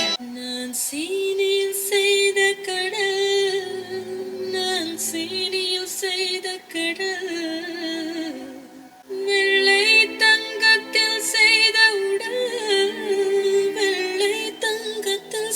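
A song with a sung melody playing through a car's upgraded audio system of Audison speakers and subwoofer, as a demonstration of the install. The song dips briefly about nine seconds in, then carries on.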